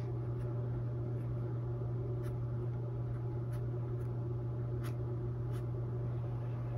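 Paintbrush working paint onto a stretched canvas, with a few faint soft taps from dabbing, over a steady low electrical hum.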